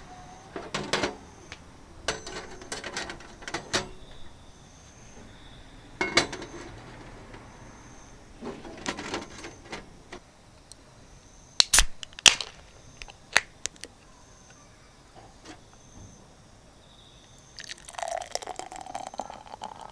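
Intermittent clinks, knocks and clatter of outdoor cooking gear being handled, in short clusters separated by quieter stretches, with a few sharper knocks about halfway through.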